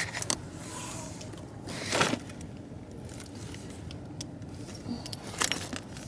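Small objects being handled: scattered clicks and rustling, with a louder rustle about two seconds in and a few sharp clicks near the end.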